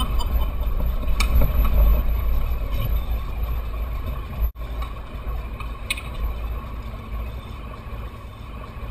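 Toyota Tacoma 4x4 heard from inside the cab while driving off road: a steady low rumble of engine and drivetrain, loudest in the first couple of seconds, with scattered light knocks and rattles and a brief break in the sound about halfway through.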